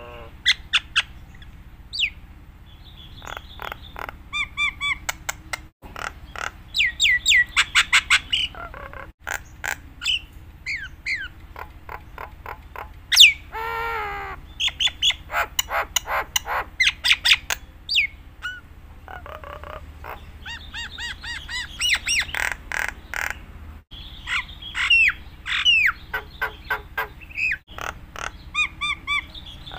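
Jalak Nias starling singing a long, varied song full of mimicked phrases: fast clicking rattles, whistled rising and falling notes and a harsh squawk about halfway through. A steady low hum runs underneath.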